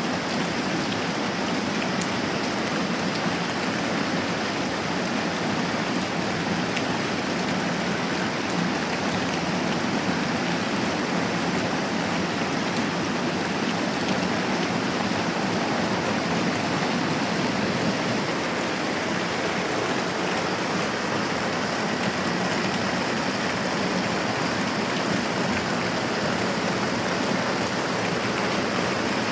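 Moderate rain falling steadily, an even hiss with no let-up.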